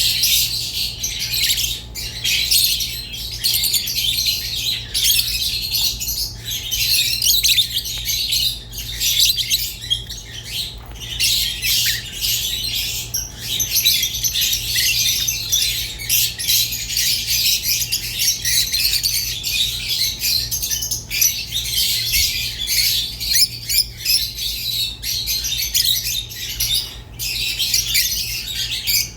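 Rosy-faced and Fischer's lovebirds chattering without pause in fast, high chirps and squawks, over a steady low hum.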